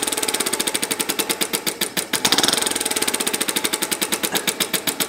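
Vertical single-cylinder compressed-air model engine with ball-bearing valves running steadily, a rapid even chuffing of exhaust pulses at about ten a second, one power pulse per revolution as it runs two-stroke.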